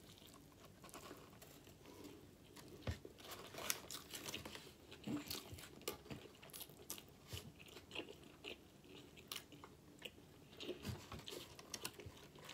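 A person chewing a mouthful of pulled pork burger on a pretzel bun, close to the microphone: faint, irregular mouth clicks.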